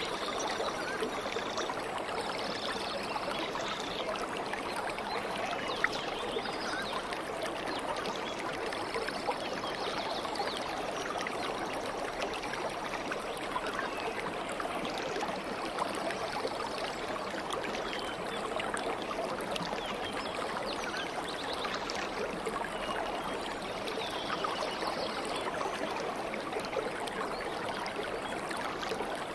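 Stream of water flowing and babbling steadily, with faint high bird calls now and then.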